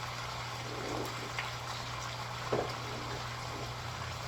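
Food simmering in a pot on the stove, a steady bubbling wash over a constant low hum, with a soft knock about two and a half seconds in.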